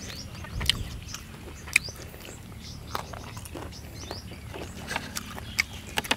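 Close-up eating sounds of crispy-skinned roasted rat: chewing with irregular sharp crunches and crackles of the crisp skin, the loudest a little under two seconds in.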